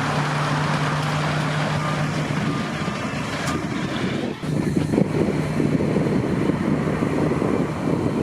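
Engine of large harvest machinery running steadily with a droning hum, joined by wind buffeting the microphone from about halfway through.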